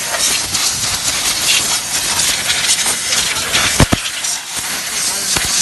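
Steady hissing spray from a car-wash nozzle, with a sharp knock about four seconds in.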